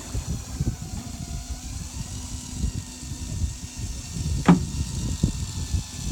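Fishing boat's engine idling, with an uneven low rumble and a faint steady whine above it. A single sharp knock about four and a half seconds in.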